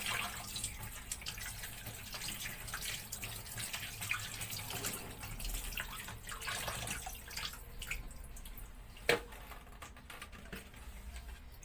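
Kitchen tap running into a sink with splashing as raw chicken breast is rinsed by hand; the water thins out in the last few seconds. A single sharp knock comes about nine seconds in.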